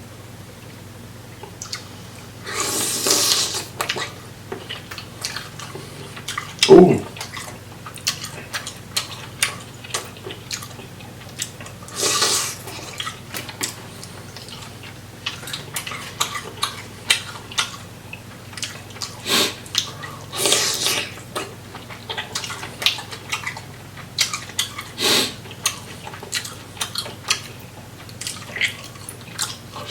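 Close-up wet eating sounds from a seafood boil: chewing, smacking and slurping with many small clicks and several longer slurps. One sharp thump about seven seconds in is the loudest sound.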